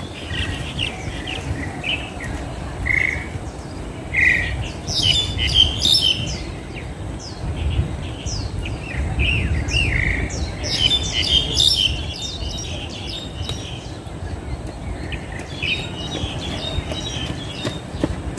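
Birds chirping and calling, many short overlapping notes that thicken in two busy spells, over a steady low rumble of outdoor background noise.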